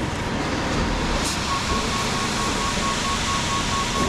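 Heavy equipment engine running steadily on a construction site. A rapid, evenly pulsed high beeping starts about a second and a half in.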